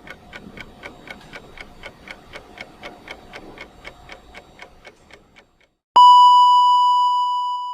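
A clock ticking about four times a second, fading away. About six seconds in, a loud single ding rings out and slowly dies away, like a timer bell at the end of a countdown.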